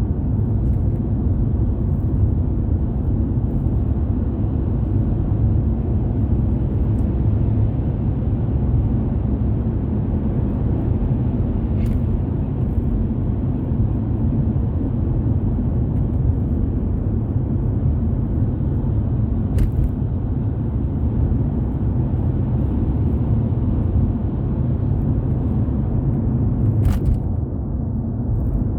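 Steady low rumble of a car driving along a road: tyre and engine noise. Three short sharp clicks or knocks break in, spaced several seconds apart.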